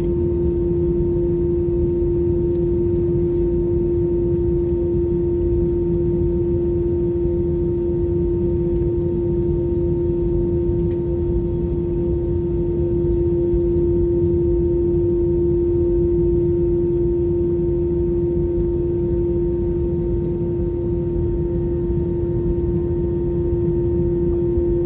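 Inside the cabin of an Airbus A321 taxiing with its CFM56 engines at idle: a steady low rumble with one strong, unchanging hum over it.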